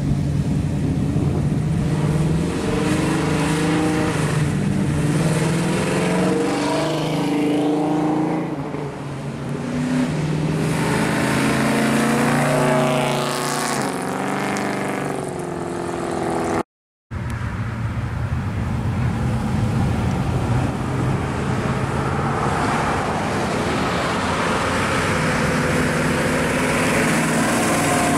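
Classic cars and hot rods driving off one after another, their engines accelerating through the gears with the pitch rising in steps. A moment of silence just past halfway is an edit, followed by another car's engine running as it pulls past.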